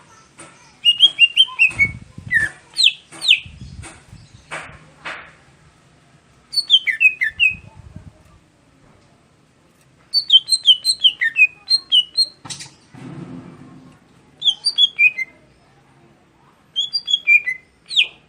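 Caged green leafbird (cucak hijau) singing in short bursts of quick, high chirping phrases, with pauses of a second or two between the bursts.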